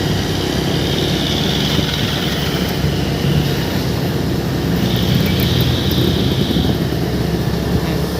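Truck diesel engine running through a Cung-style aftermarket exhaust: a loud, steady, fast-pulsing exhaust note.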